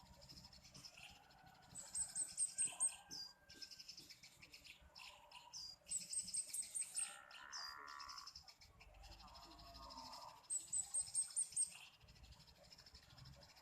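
A small bird calling: a fast run of six or seven high, sharp notes ending in a lower note, repeated three times about four seconds apart, with fainter chirps in between.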